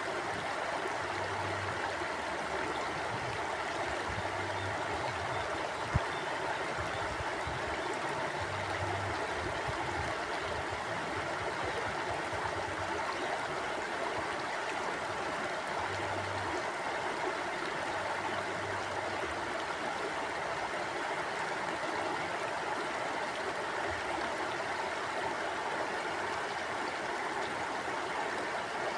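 A river flowing: a steady, even rush of water. A single sharp click sounds about six seconds in.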